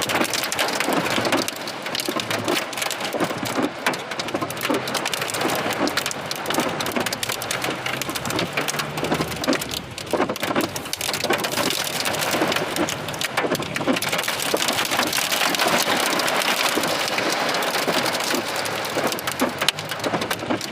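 Heavy storm downpour beating on surfaces: a dense, continuous patter of countless drops.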